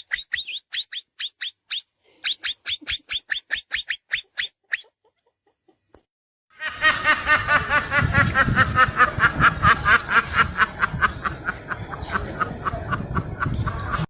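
Birds calling: two quick runs of short, high chirps, about five or six a second, then after a short silence a loud, dense chatter of many birds calling at once.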